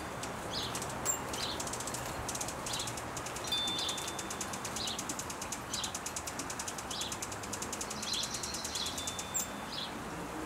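Small birds chirping: short high chirps every second or so, with a fast high trill running through most of it, over steady outdoor background noise.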